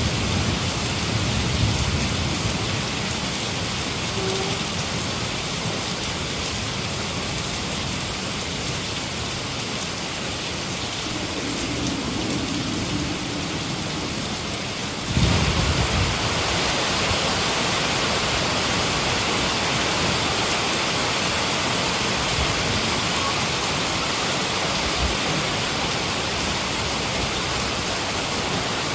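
Heavy rain falling steadily, with low rolls of distant thunder near the start and again in the middle. About halfway through the rain suddenly becomes louder and brighter, with a short low thud of thunder.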